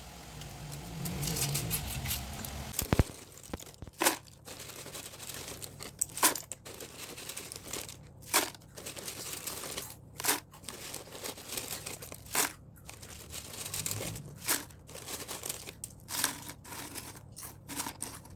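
Crinkling and rustling in short strokes that come about every two seconds.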